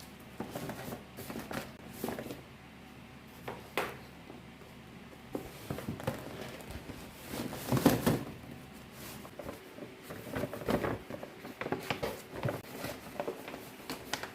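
Household objects being handled: irregular light knocks, clicks and rustles, the loudest knock about eight seconds in.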